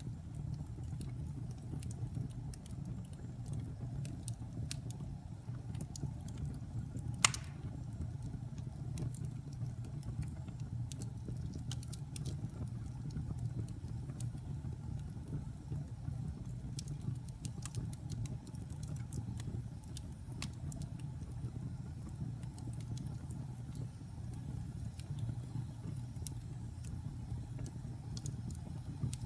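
Wood fire burning in a fireplace: a steady low rumble of flames with scattered small crackles, and one loud sharp pop about seven seconds in.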